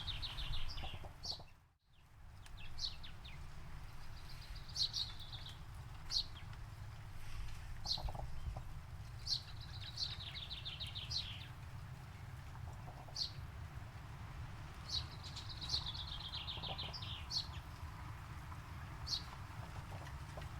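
Songbirds singing: a repeated trill of quick notes that slides downward, over and over, with separate short sharp chirps every second or two, above a steady low rumble. The sound briefly drops out about two seconds in.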